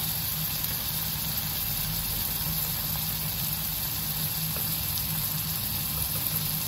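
Sliced onions with ginger-garlic paste and ground spices sizzling steadily in hot oil in a pan, over a steady low hum.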